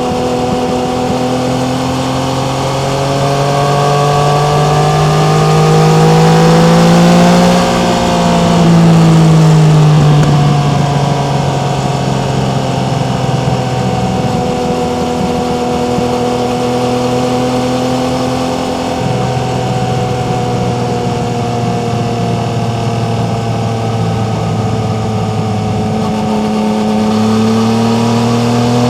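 Yamaha MT-09's three-cylinder engine running under way, its pitch rising to a peak about seven to eight seconds in, then easing back to a steady cruise.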